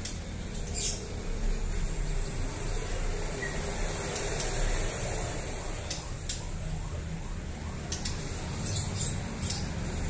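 Caged white-rumped shamas giving short, high calls now and then over a steady low hum.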